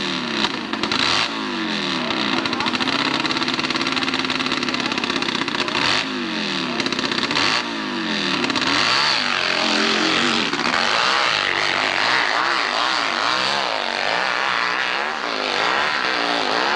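Hillclimb racing motorcycle engine revving hard, its pitch sweeping up and down again and again as the throttle opens and closes on a run up the hill, with a few short sharp cracks in the first half.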